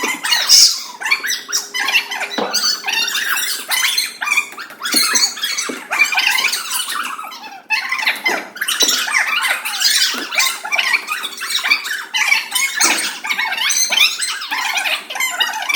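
Many children squealing and shrieking over one another in an echoing indoor room, a continuous jumble of high-pitched cries and squeaks.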